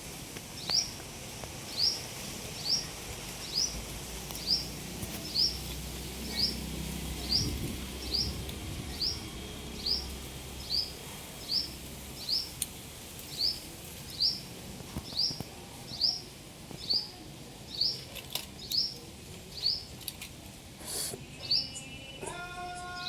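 A parrot giving short, high, rising chirps, one about every second in a steady series. Steady musical tones come in near the end.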